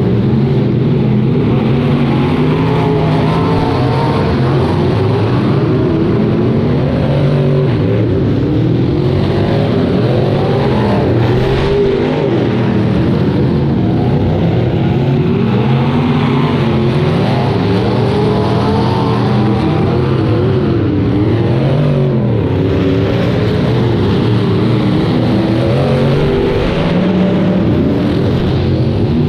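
Engines of several demolition derby cars running and revving together, a dense mix of engine notes whose pitches waver up and down as the cars accelerate and back off.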